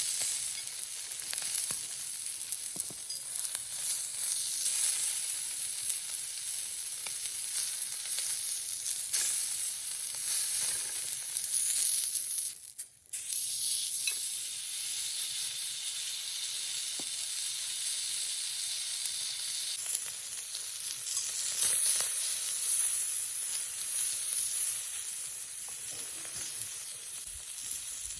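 Meat sizzling on a homemade steel griddle: a steady high hiss of frying fat with scattered small pops and crackles. It drops out for a moment about halfway through.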